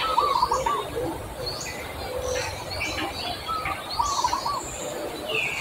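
Birds chirping: short phrases of quick repeated notes and brief falling chirps, over a low rumble of background noise.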